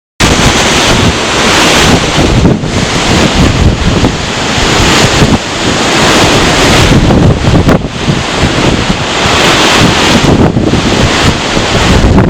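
Strong wind on the sea, with surf breaking, loud and gusting, and heavy wind buffeting on the microphone. It starts abruptly right at the beginning.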